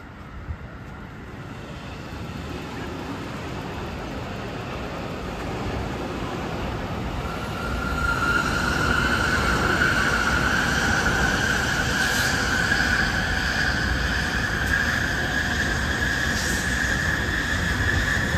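N700-series Shinkansen train running past on the tracks below, its sound building over several seconds into a loud rush. A steady high whine comes in about eight seconds in and holds to the end.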